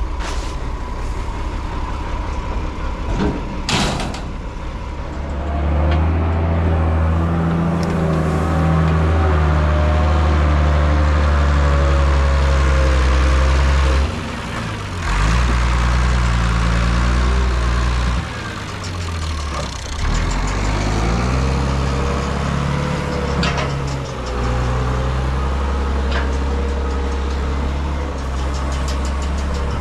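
Massey Ferguson tractor's diesel engine working under load on the silage pit. Its revs drop and climb back twice, in the middle and later on, and there is a sharp knock about four seconds in.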